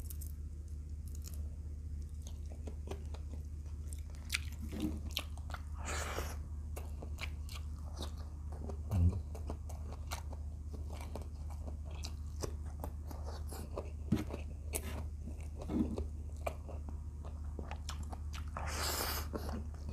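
Close-miked chewing of rice, fried tilapia and pakbet vegetables eaten by hand: many wet mouth clicks and lip smacks, with a few louder breathy sounds, the longest near the end. A steady low hum runs underneath.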